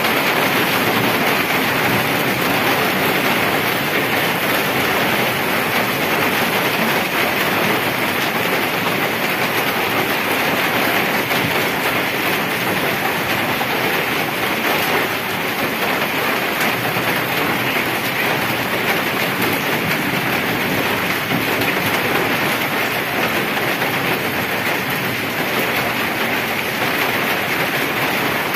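Heavy rain falling steadily on wet pavement and puddles, a dense, even hiss.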